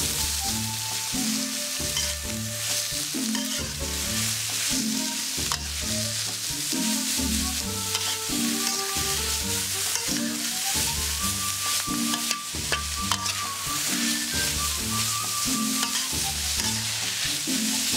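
Sliced bamboo shoots sizzling in hot oil in a wok as they are stir-fried, with a metal spatula scraping and tossing them. Background music with a repeating bass line and a simple melody plays throughout.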